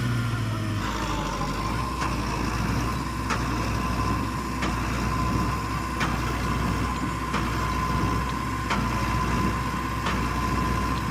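Tractor diesel engine running steadily at low revs, with a steady thin whine over it and a sharp click repeating about every second and a third.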